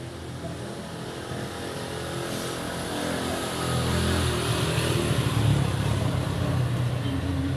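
A motor engine running with a low, even hum that grows steadily louder over a few seconds.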